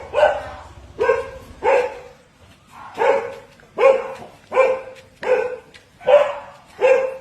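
A dog barking repeatedly, about nine loud single barks spaced under a second apart, with one longer pause partway through.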